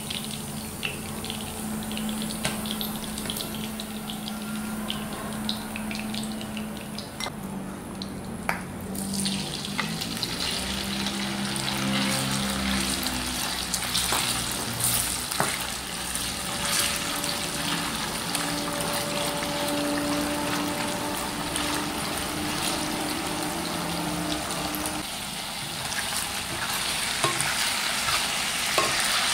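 Pieces of pork sizzling in hot oil in a wok, with the scrape and tap of a spatula stirring them. The sizzle dips for a moment about seven seconds in, then comes back stronger as the raw marinated pork fries.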